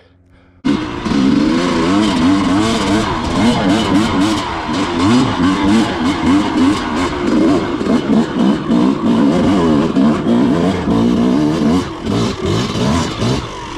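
Dirt bike engine revving hard, its pitch rising and falling over and over as the throttle is worked, on a run up a rutted hill climb. It starts suddenly about half a second in, after a moment of quiet.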